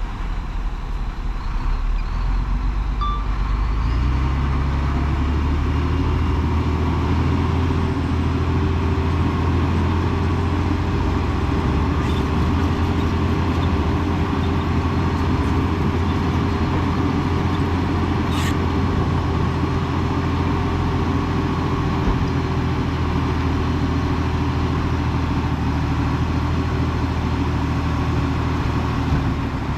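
Heavy diesel engine of earthmoving equipment running steadily. Its revs rise about four seconds in and then hold.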